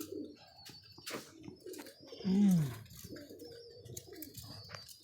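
Domestic pigeons cooing: a run of low, gliding coos, the loudest about two and a half seconds in, with a few scattered light clicks.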